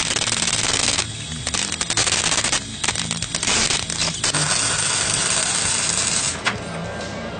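Several long bursts of loud hissing, separated by short gaps, with faint background music underneath.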